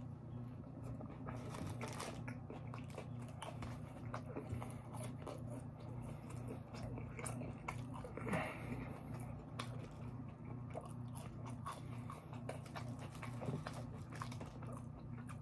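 Close-up mouth sounds of a person eating a fast-food chicken tender sandwich and curly fries: chewing with many small crunches and wet clicks, over a steady low hum. One louder smack about eight seconds in.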